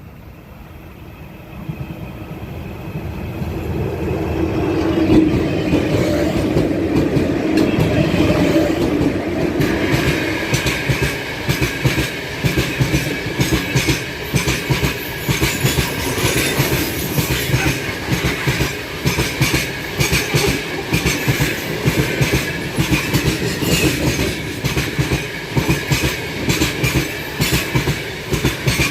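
An Ermak freight electric locomotive approaches with a freight train, its rumble and hum growing louder over the first few seconds. From about ten seconds in, the freight wagons roll past with a regular clickety-clack over the rail joints and a steady high-pitched wheel whine.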